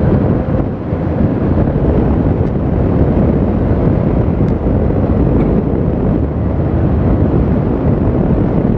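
Loud, steady rumble of wind buffeting the microphone, mixed with road noise from a moving vehicle.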